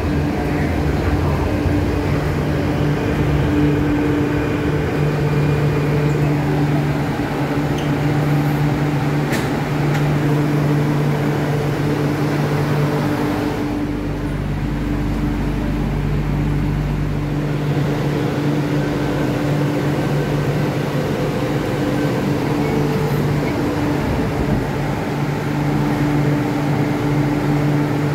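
Steady electrical hum with a few tones from an MTR Kwun Tong line train's onboard equipment, over even background noise. A low rumble swells briefly about halfway through.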